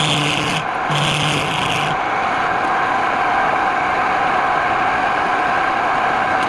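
Wood lathe running with a steady whine while wood rubs against the spinning workpiece: two short strokes in the first two seconds, then continuous even rubbing.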